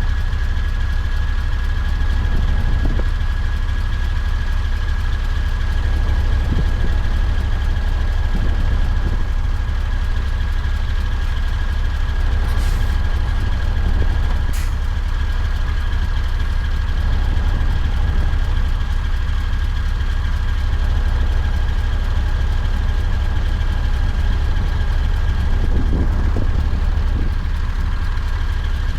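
Scania V8 diesel truck engine running steadily: a heavy low drone with a thin, steady high whine over it. Two brief clicks come about halfway through.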